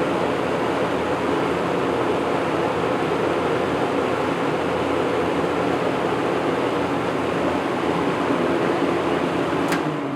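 Vintage 1980s Lakewood box fan running steadily and smoothly on its well-balanced blade set: a broad rush of air over a faint motor hum. Near the end there is a click, and the sound begins to fade as the fan winds down.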